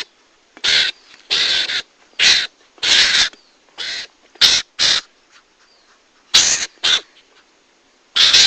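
Mongoose (garangan) lure calls: about ten harsh, rasping calls in short bursts, irregularly spaced with brief pauses, played as bait to draw mongooses in.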